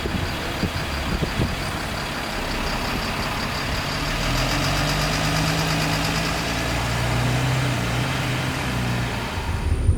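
ADL Enviro 400 double-decker bus engine running, with a thin steady high turbo whistle over the engine and road noise. About four seconds in, the engine note grows stronger and shifts in pitch as it works.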